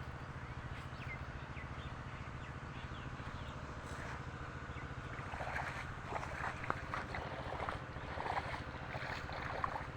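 A steady, low engine drone with a fine, rapid pulse throughout. Faint short chirps sound over it in the second half.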